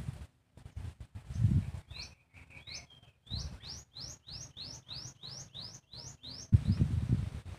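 A bird singing a run of about ten quick rising notes, about three a second, after a few lower notes. A louder low rumbling noise comes in near the end.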